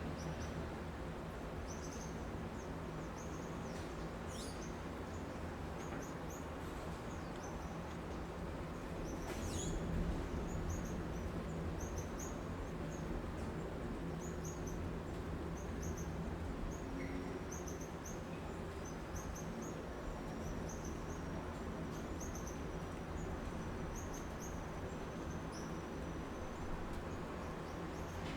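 City street ambience: a steady low hum of distant traffic under small birds chirping in short, high, repeated notes, with a brief thin trill near the end. The traffic swells slightly about ten seconds in.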